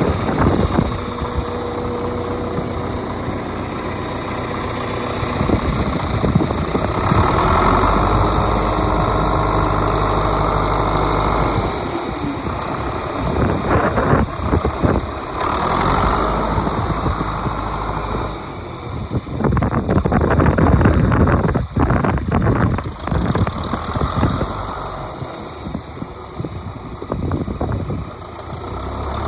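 1972 John Deere 3020's four-cylinder diesel engine running: idling steadily, then running louder for a few seconds at a time as it is throttled up, with a rougher, uneven stretch a little past the middle.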